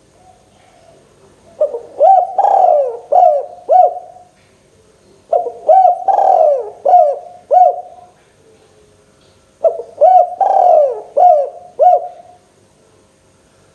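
Spotted dove (tekukur) cooing in three calls, about four seconds apart. Each call is a few short coos around one longer coo that falls in pitch.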